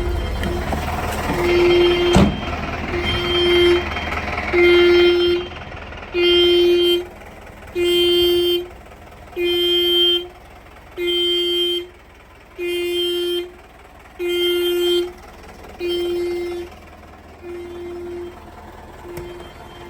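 Fire truck warning horn sounding a single-pitched tone in regular on-off blasts, about one every one and a half seconds. It grows louder over the first few blasts and fades over the last few. A sharp click comes about two seconds in.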